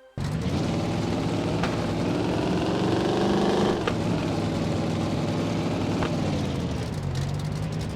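Car engine revved: its pitch climbs for about three and a half seconds, falls away as the throttle is released, then settles to a steady idle.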